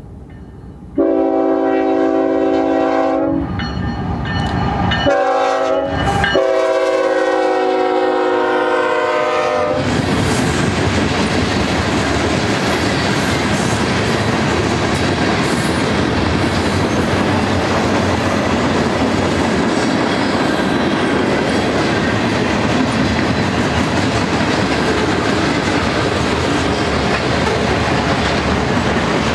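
A BNSF GE ES44C4 freight locomotive sounds its multi-note horn in several blasts, the last about three and a half seconds long, as it approaches. From about ten seconds in, the horn stops and the freight cars rumble and clack steadily past.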